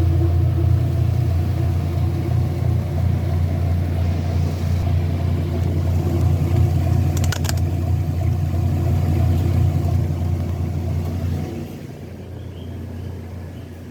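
Washing machine running with a loud, steady low hum, which drops off sharply near the end. A brief click about seven seconds in.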